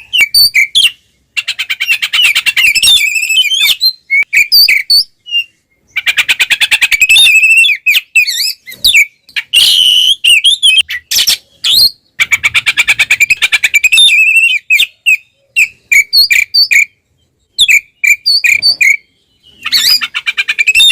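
Oriental magpie-robin (kacer) singing loudly in full aggressive song: phrases of rapid rattling, buzzy notes alternating with short whistled notes, broken by brief pauses.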